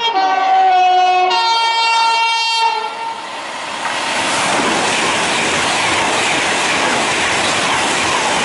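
Virgin class 390 Pendolino electric train sounding its two-tone horn, a lower note then a higher one, then running through the station at speed with a loud rush of air and wheel noise.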